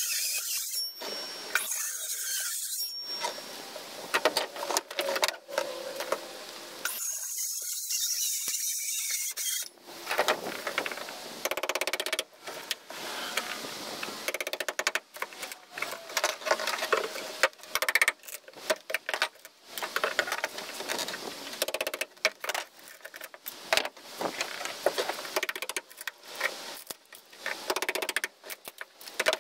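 Hand-tool work: irregular metallic clinks, scrapes and knocks, with stretches of hissing scraping in the first several seconds.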